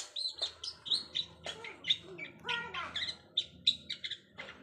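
Long-tailed shrike (cendet) singing a rapid, varied string of short, sharp chirps and slurred notes: practice of mimicked 'isian' fill-in song.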